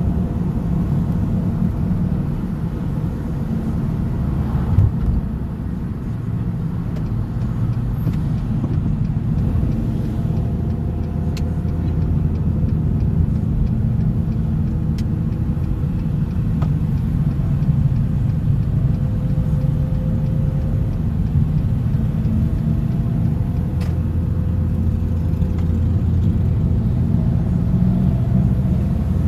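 Car driving at steady speed: a low engine drone with road noise, its pitch shifting slightly now and then, and a brief thump about five seconds in.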